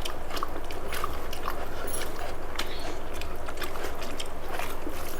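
Eating sounds: chewing and wet mouth smacks and clicks, scattered irregularly, from people eating rice with chicken curry, over a steady low hum.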